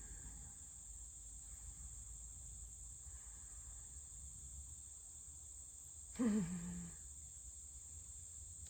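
Insects chirring steadily in a high pitch over a low rumble. About six seconds in, a short vocal sound from a person, falling in pitch.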